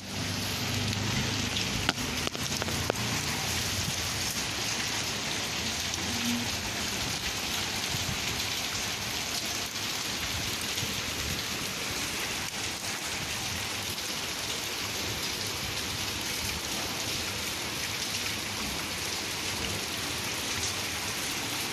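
Steady rain falling, an even hiss, with a few sharper drip taps about two and three seconds in.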